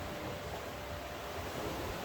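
Steady rain falling, an even hiss with no single sounds standing out.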